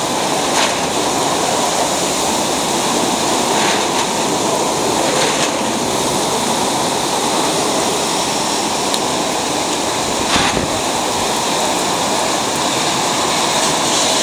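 Steady, loud rush of typhoon wind and rain, with a few faint brief clicks.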